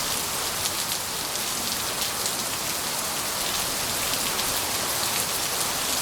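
Steady rain falling, a dense patter of many individual drops hitting surfaces.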